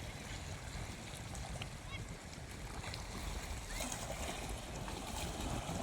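Beach ambience: wind buffeting the microphone over a steady wash of surf, with a few faint short high chirps.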